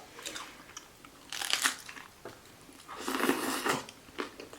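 Close-up biting and chewing of a vegan salad taco: two louder crunches, about one and a half and three seconds in, with small mouth clicks between.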